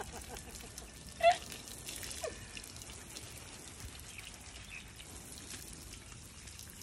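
Water being poured over a horse during its bath, trickling and dripping steadily. A short, loud pitched sound cuts in about a second in.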